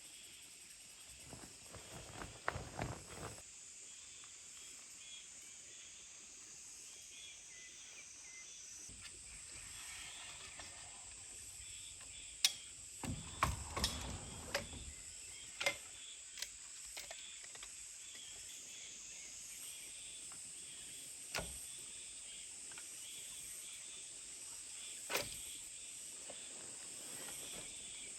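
Outdoor forest ambience with a steady high insect drone, broken by a few sharp clicks and knocks, a cluster of them about halfway through.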